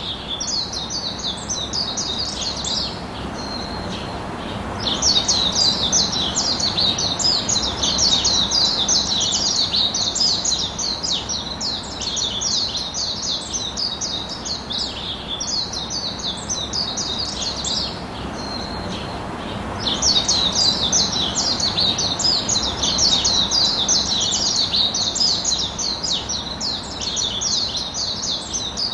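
Birds chirping rapidly and continuously, in long bouts that pause briefly about four seconds in and again around eighteen seconds, over a steady background hiss.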